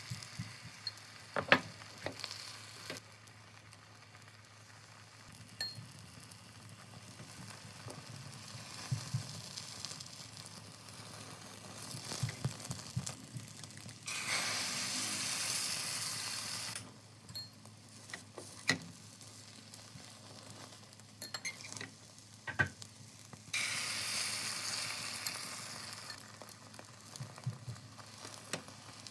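Food sizzling in a hot pan. The sizzle swells loudly twice, around the middle and again a little later, and is broken by sharp clicks and knocks of utensils against the pan. The loudest is a single knock about a second and a half in.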